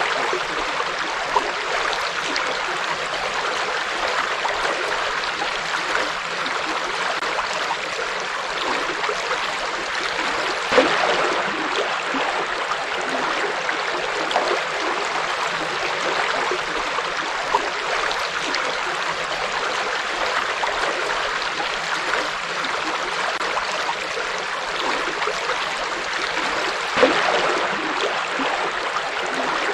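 A river flowing over rocks: a steady rush of running water with small splashes and gurgles, a slightly louder splash about eleven seconds in and again near the end.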